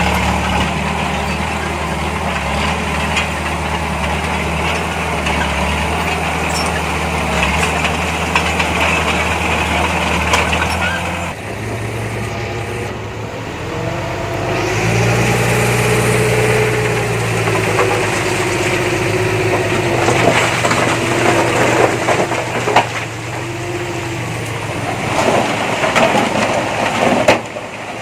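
Heavy earthmoving machine's diesel engine running steadily. About 11 seconds in the sound changes abruptly, then the engine note rises and holds higher under load. Scattered knocks and clanks come near the end.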